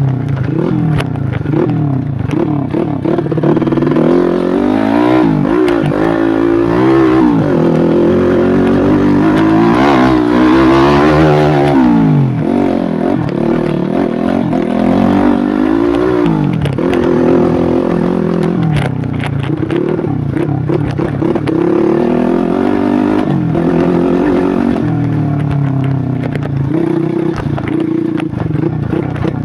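Modified 130cc Yamaha Jupiter Z underbone motorcycle's single-cylinder four-stroke engine under load on a rocky trail, the revs rising and falling again and again as the throttle is worked, with one longer climb and drop about ten seconds in.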